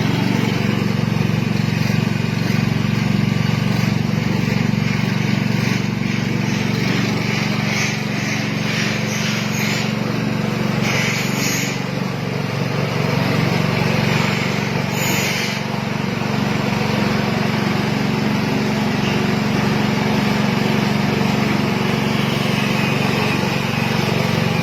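Automatic coconut-milk press machine running, its motor giving a steady hum, with a few short bursts of hiss in the middle.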